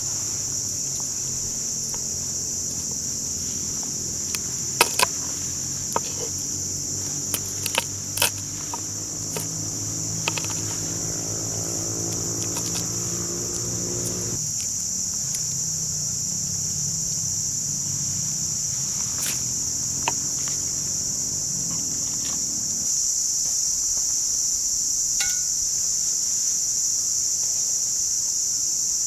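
Steady high-pitched chorus of crickets or other insects, getting a little louder near the end. Scattered sharp clicks come in the first half, over a low hum that cuts off about halfway through.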